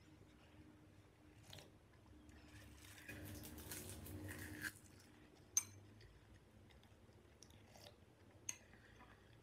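Eating sounds: chewing and biting on instant noodles and seasoned seaweed, loudest from about two and a half seconds in until nearly five. A sharp click of the metal spoon or chopsticks against the glass bowl comes about halfway through, and a second near the end.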